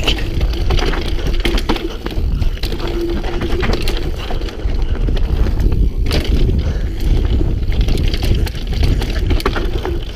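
Mountain bike riding down a rough dirt trail: a continuous wind rumble on the microphone with constant rattling, clicks and knocks from the bike jolting over bumps.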